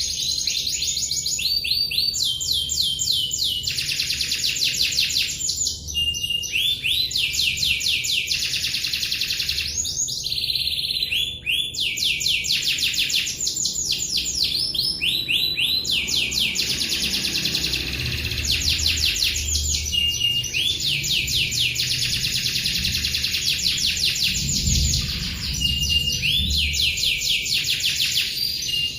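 Domestic canary singing in full voice: long, rapid rolling trills, one phrase running into the next every second or two with hardly a pause.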